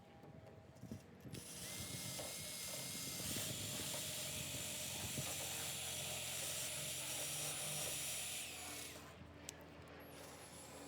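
Small handheld power tool spinning up with a rising whine, running steadily as it grinds rust out of a steel body seam, then winding down, with a click and a second start-up near the end.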